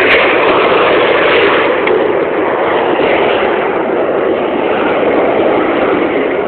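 Loud, steady roar of a display aircraft flying past, easing off slightly after about two seconds.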